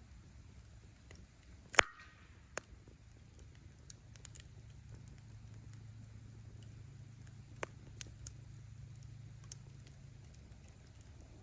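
Wood bonfire burning: a steady low rumble of flames with sharp cracks and pops from the burning firewood, the loudest pop about two seconds in, then scattered smaller ones.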